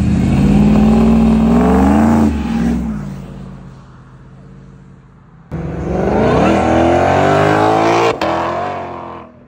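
Two hard accelerations by performance cars, each engine climbing steadily in pitch at full throttle. The first eases off about two seconds in and fades away. The second, a Ford Shelby Mustang's V8, cuts in suddenly past the middle and stops abruptly near the end.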